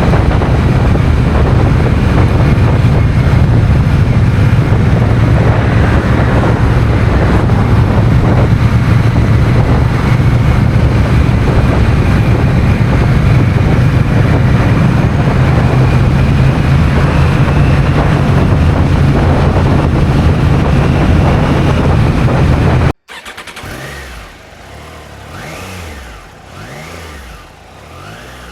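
Honda Rebel 1100's parallel-twin engine running steadily under way, loud, with dense road and air noise. About 23 seconds in it cuts off suddenly to a much quieter engine sound with a few rising and falling revs.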